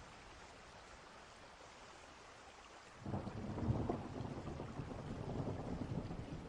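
Steady rain with a distant thunderstorm; about three seconds in, a low roll of distant thunder comes in suddenly and keeps rumbling.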